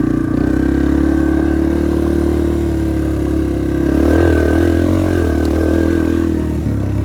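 Yamaha TT-R230 dirt bike's single-cylinder four-stroke engine running under the rider on a trail, with a change in throttle about four seconds in before it settles back.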